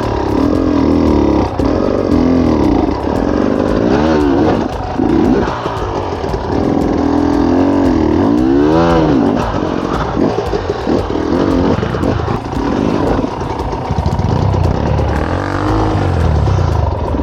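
Off-road dirt bike engine revving hard in repeated bursts, its pitch rising and falling again and again as the throttle is worked.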